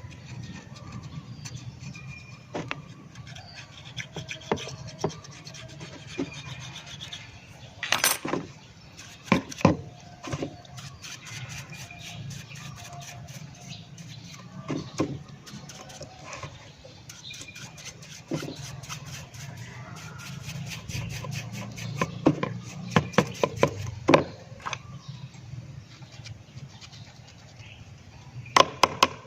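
Scattered clicks, knocks and rubbing from hand work, over a steady low hum, with clusters of sharp knocks about eight seconds in, around twenty-two seconds in, and near the end.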